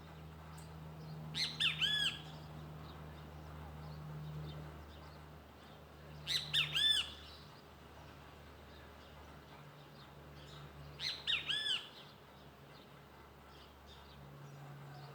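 A bird calling in three short bursts about five seconds apart, each a quick run of three or four arched, ringing notes. A faint steady low hum underneath.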